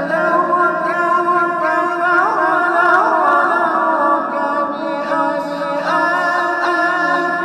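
Vocal music: several sustained singing voices in layered harmony over a steady low drone.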